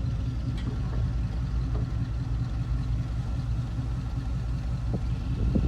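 1991 Ford F-250's 460 V8 running steadily at idle, which the seller says skips on one cylinder. There is a faint click about half a second in and a few sharp knocks near the end.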